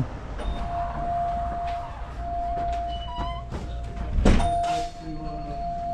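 A single heavy thunk about four seconds in, like a door shutting, over a steady high-pitched hum.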